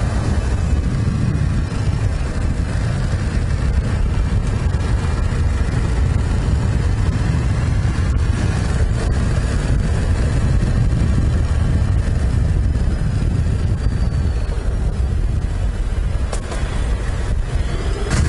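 Steady low road rumble of a vehicle under way, engine and tyre noise with no change in pace.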